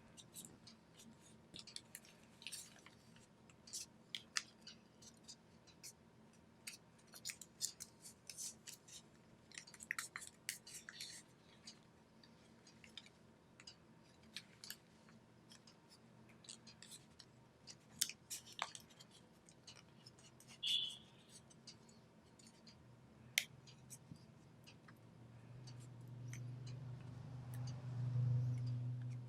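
Origami paper being handled and folded, with scattered crisp crackles and rustles as the sheet is creased. Near the end a low hum swells.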